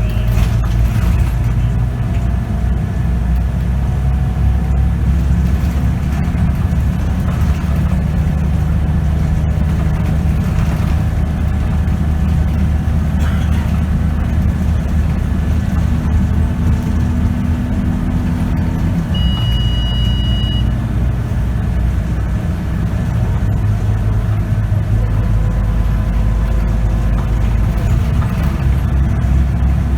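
Scania K94UB city bus's 9-litre diesel engine and ZF automatic transmission running under way, heard from inside the cabin, with pitch lines that slowly change as the bus speeds up and shifts. A short high beep sounds about two-thirds of the way through.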